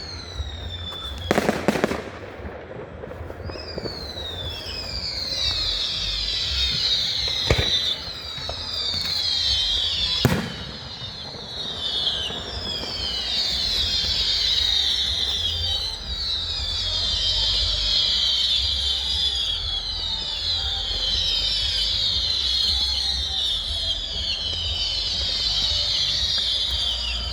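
Fireworks display: a few sharp bangs in the first ten seconds, then a long unbroken run of many overlapping high whistles, each falling in pitch, from whistling fireworks.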